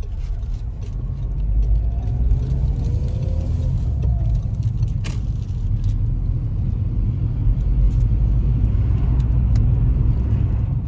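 Steady low rumble of a car driving, with a single click about five seconds in.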